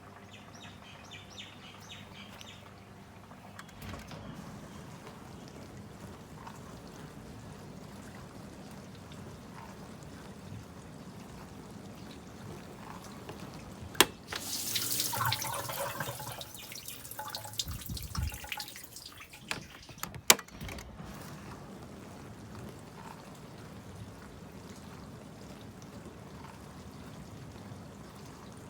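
Miele G1243 SCU dishwasher running, with water sloshing and trickling inside. About halfway through a sharp click is followed by a louder rush of water lasting several seconds, then another sharp click.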